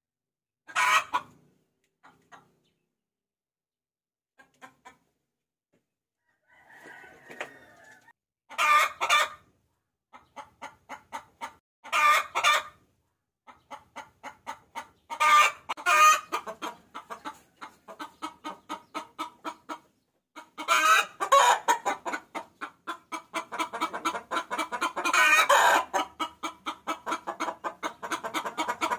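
A hen cackling: rapid repeated clucks about three a second, broken by louder, longer squawks. It is her call to a cockerel, used as a lure. The calls are sparse at first and grow denser in the second half.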